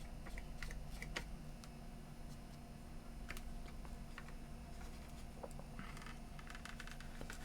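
Scattered light clicks and taps of small hard parts being handled, with a quicker run of clicks near the end, over a low steady hum.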